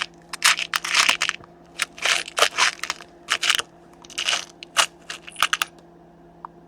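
Irregular short crinkling, rustling bursts from small packets of grub screws being handled, stopping near the end.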